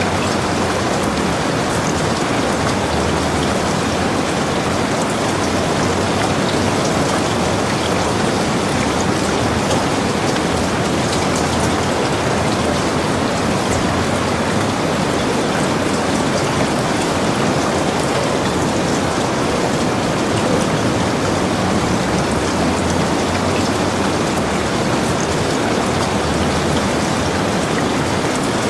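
Heavy rain falling steadily, a dense even hiss with single drops ticking through it.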